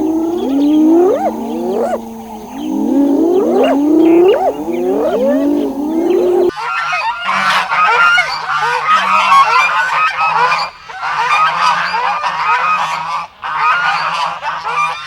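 Animal calls: for about the first six seconds, a run of pitched calls that glide up and down, then an abrupt cut to a dense chorus of many overlapping calls, as from a large flock.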